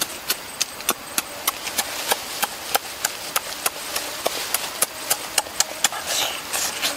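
Loud open-mouthed chewing and lip-smacking while eating cooked duck egg: a rapid run of wet clicks, about three to four a second.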